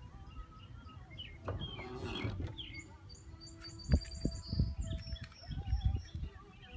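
Songbirds chirping and trilling, with several short calls and a quick trill about three to four seconds in. Low rumbling bumps run underneath, and a sharp knock about four seconds in is the loudest sound.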